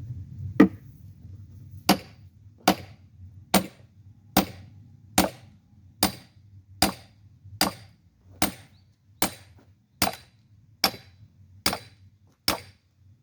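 A hammer striking a splitting wedge driven into a knotty log: about fifteen sharp, evenly paced blows, a little over one a second, the first one the loudest.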